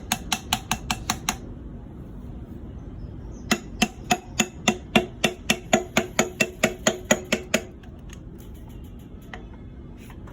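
Metal tapping on metal in quick, even strikes, each with a short ring: about eight near the start, then after a pause a longer run of about twenty at roughly five a second.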